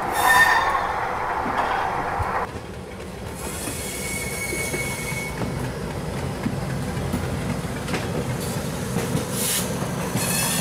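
Express passenger train running on the rails: a steady low rumble with scattered clicks from the wheels. A louder hiss in the first couple of seconds cuts off suddenly, and a brief high wheel squeal comes about four seconds in.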